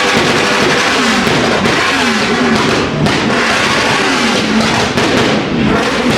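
A car engine revved again and again, about once a second, each rev rising and falling in pitch, over a loud constant rumble of engines.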